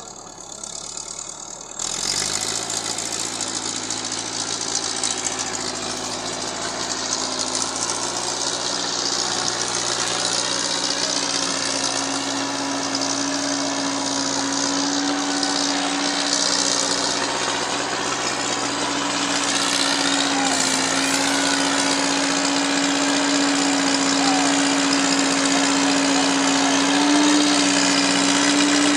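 Massey Ferguson 265 tractor's diesel engine running, jumping louder about two seconds in and then holding a steady drone that creeps slowly up in pitch, as it pulls a heavily loaded trolley.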